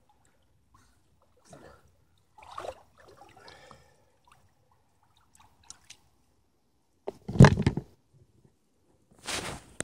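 Water sloshing and splashing around a kayak, with a loud sudden splash about seven seconds in and a shorter one near the end.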